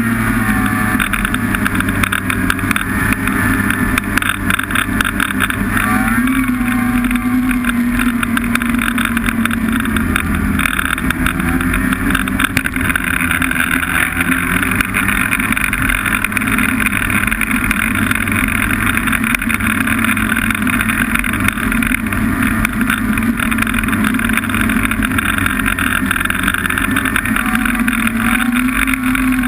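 Snowmobile engine running steadily under way, its note wavering a little as the throttle changes.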